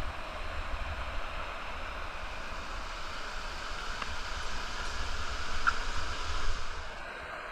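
Steady rush of falling water in a canyon, an even hiss with a low rumble underneath.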